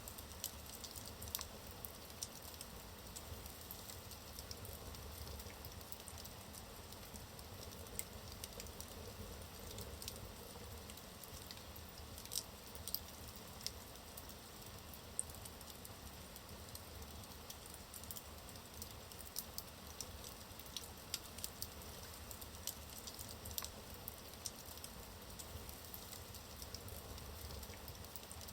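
Wood logs burning in a fireplace, crackling with frequent small sharp pops over a low steady rush of flame.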